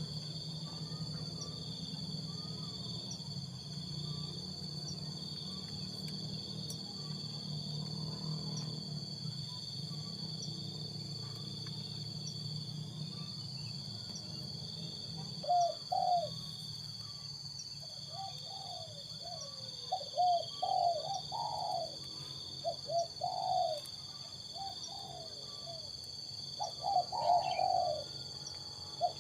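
Spotted dove (tekukur) cooing in repeated short phrases, starting about halfway through. A steady insect drone and a low hum run underneath.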